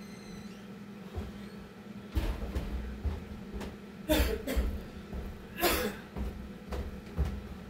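A man recovering from a hard burpee workout, breathing heavily and coughing, with the two loudest coughs about four and six seconds in. A steady low hum runs underneath.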